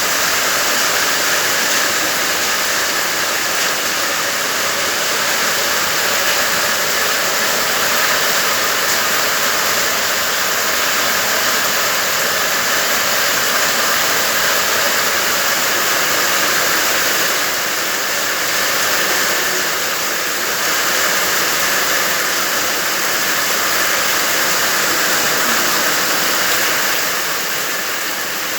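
Heavy rain pouring down, a steady dense hiss that eases slightly a few times.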